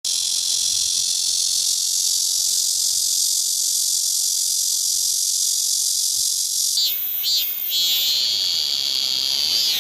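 Cicadas singing: a continuous high buzzing drone, which about seven seconds in gives way to a different cicada's song of rhythmic pulsing calls with a steady high whine between them.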